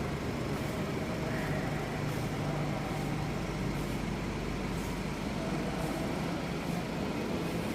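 Steady low mechanical hum with a constant drone and an even noise over it, holding level throughout.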